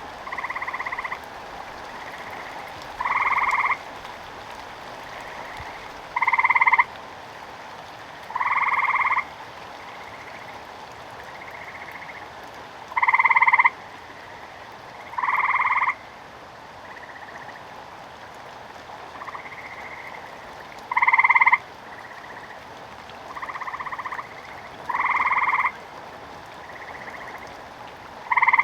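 Frogs croaking in the rain: a loud call of about two-thirds of a second repeats every two to three seconds, with fainter calls in between, over a steady hiss of rain.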